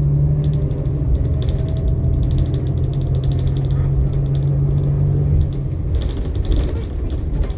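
Cummins-Westport ISL-G natural-gas engine of a New Flyer XN60 articulated bus droning steadily under way, with interior panels rattling and clicking. The engine drone drops away about five and a half seconds in, followed by a cluster of sharper clicks and rattles.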